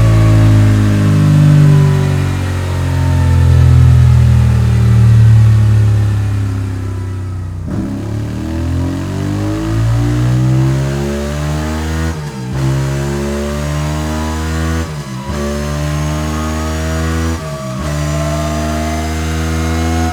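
Voge DS 625 X motorcycle's parallel-twin engine running on a dyno through a Scorpion slip-on exhaust. It holds high revs for several seconds with the pitch easing slightly, then accelerates through the gears. Each short break in the sound is a quick upshift, after which the revs climb again, about three times.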